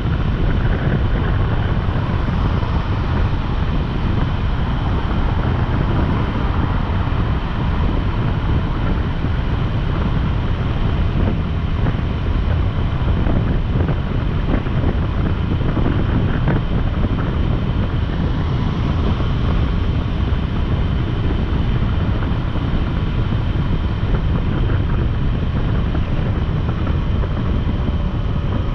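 Motorcycle engine running while riding, under heavy wind rush over the microphone, steady throughout.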